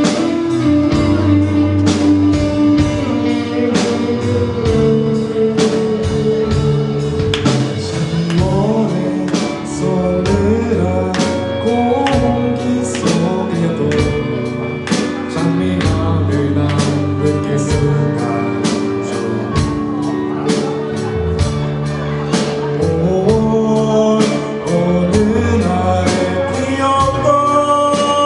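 Live amateur rock band playing a song, with drums keeping a steady beat under bass and electric guitar.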